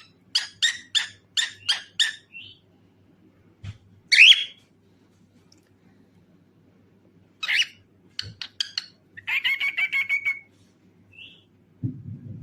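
Cockatiel calling and chattering: a quick run of about seven sharp notes, a loud call about four seconds in, another call and more quick notes, then a fast warbling trill near the ten-second mark.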